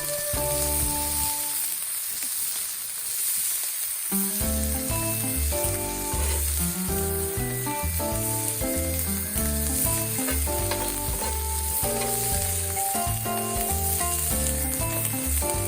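Beef steak sizzling as it fries over a campfire, a steady hiss. Background music plays over it, dropping out for about two seconds near the start and then coming back.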